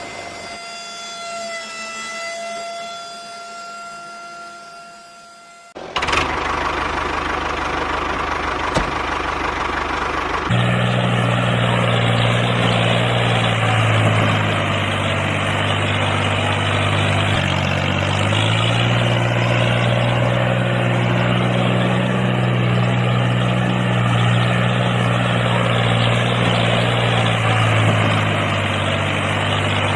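A small motor running steadily with a low humming drone. Before it, a high steady whine cuts over to a louder, noisier run about six seconds in, and the low hum comes in about ten seconds in.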